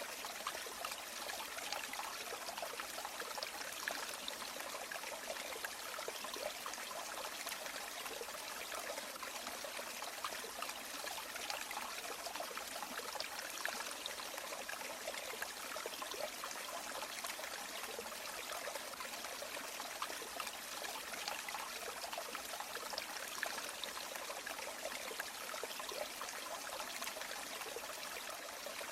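River water flowing steadily: a continuous rushing and trickling with little deep rumble.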